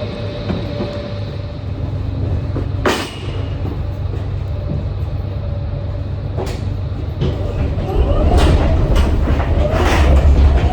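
Forklift working while pallets are unloaded from a trailer: a steady low engine rumble, a few sharp metal knocks, and a rattling clatter that gets louder over the last few seconds.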